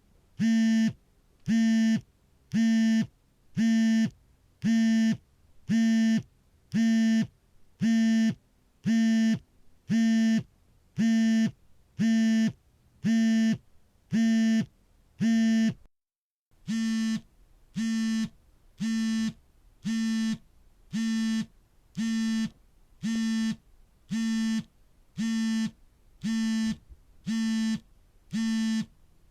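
A mobile phone vibrating for an incoming call: a regular train of short buzzes, about one a second. There is a brief break about halfway through, after which the buzzes come a little quieter.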